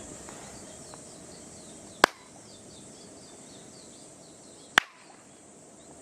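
Two sharp, loud cracks, such as claps, about two and three-quarter seconds apart, made to trigger a row of sound-activated LED modules, over a steady background hiss with faint high chirps.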